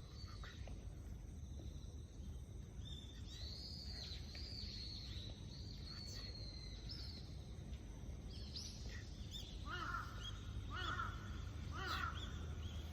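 Birds calling: thin, high, gliding calls through most of the stretch, then three louder, lower calls about a second apart near the end, over a steady low background rumble.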